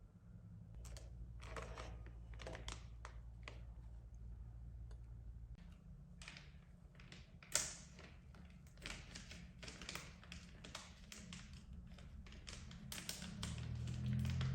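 Irregular light clicks and taps from small hard objects being handled, with one sharper knock about halfway through.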